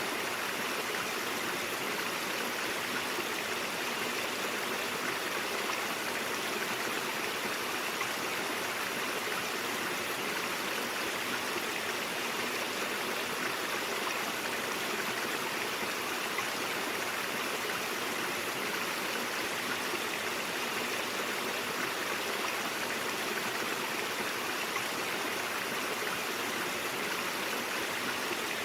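A stream of water running steadily over rocks, an even rushing and babbling with no breaks.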